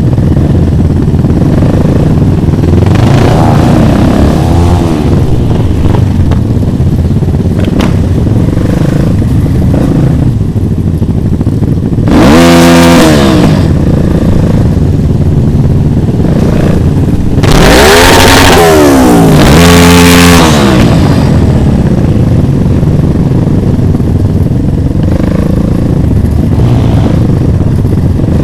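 Motorcycle engines running, revved up and down several times, with the loudest revs about twelve seconds in and again around eighteen to twenty seconds in.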